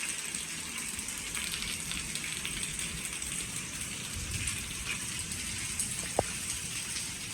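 Steady hiss of falling water pattering like rain, with a single short click about six seconds in.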